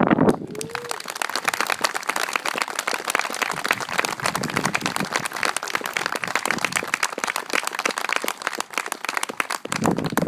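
Wedding guests clapping and applauding, a dense patter of hand claps that dies away shortly before the end, with a short rising cheer near the start.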